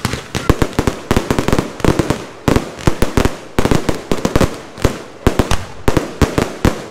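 Aerial fireworks shells bursting in a rapid barrage: many sharp bangs a second, coming in clusters with brief gaps.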